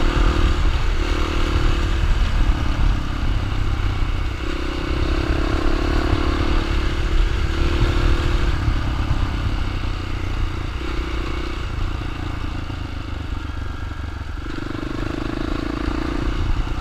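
Dirt bike engine running under way, its note swelling and easing every second or few over a steady low rumble.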